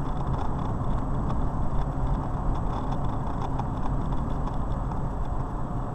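Steady rumble of a car driving, with road and engine noise running evenly throughout.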